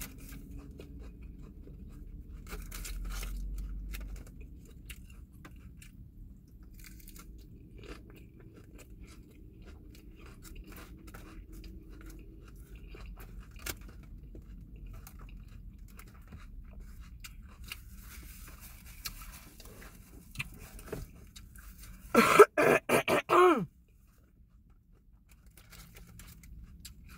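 Close-up chewing and crunching of salad greens, mouth noises with small clicks throughout. About three-quarters of the way in, a short loud burst of voice in a few quick pulses.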